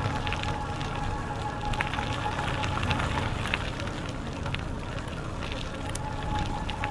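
Bicycle rolling along a trail: tyres crackling with many small irregular clicks over a steady rushing noise, with low wind rumble on the microphone.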